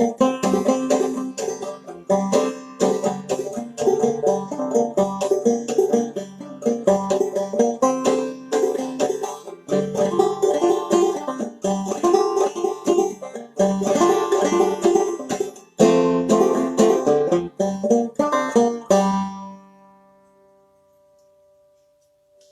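Banjo played clawhammer style: an old-time tune picked in an alternate tuning, with quick plucked and brushed notes. About 19 seconds in the playing stops and the final notes ring out and fade away.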